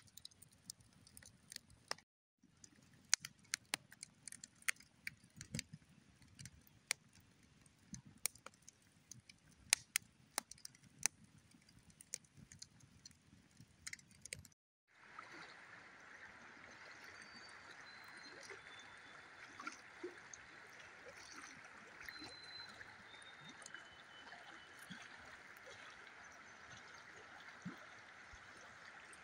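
Campfire crackling and snapping with irregular sharp pops. After a cut it gives way to a steady, even hiss, with a few short, high whistled notes, like bird calls, over it.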